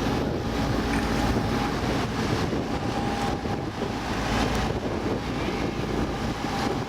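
Motorboat water taxi under way: its engine running steadily, with wind buffeting the microphone and water rushing along the hull.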